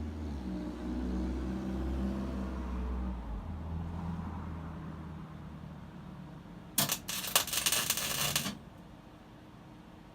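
MIG welder arc crackling and sputtering for under two seconds, about seven seconds in, laying weld onto broken bolts. Before it there is a steady low hum.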